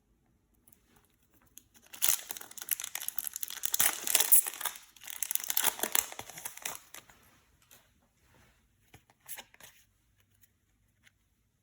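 Foil booster pack wrapper crinkling and tearing as it is opened by hand, a dense crackle that starts about two seconds in and lasts about five seconds. Near the end come a few faint taps.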